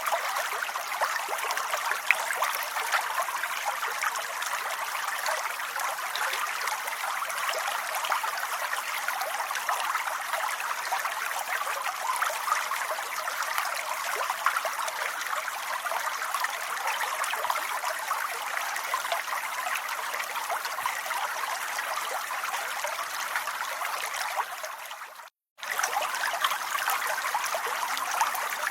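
Steady, dense rain noise with no pauses, until it fades out and drops to silence for a fraction of a second about 25 seconds in, then resumes at the same level.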